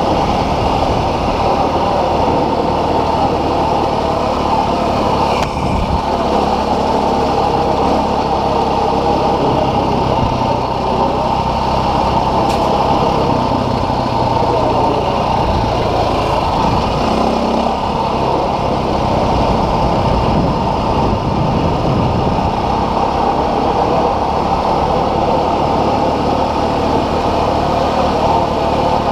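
Dual-sport motorcycle engine running steadily while under way.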